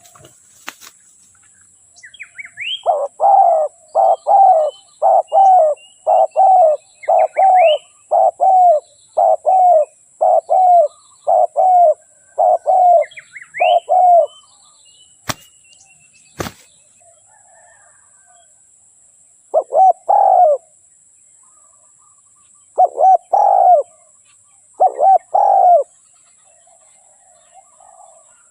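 Spotted dove cooing: a quick, even run of short coos lasting about eleven seconds, then, after two sharp clicks, a few more coos with longer pauses between them.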